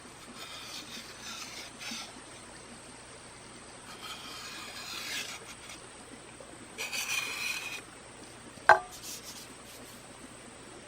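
Bamboo being scraped with a blade in three rough passes, each lasting one to two seconds, then a single sharp knock near the end, the loudest sound.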